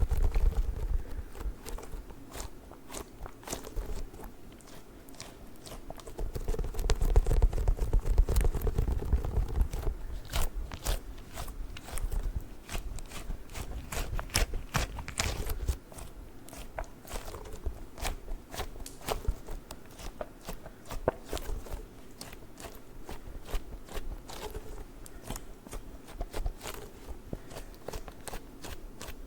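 Squishy strawberry stress toy squeezed and handled close to the microphone, making crackly, crunchy squishing with many quick small clicks. The handling gets louder and deeper for a few seconds near the middle.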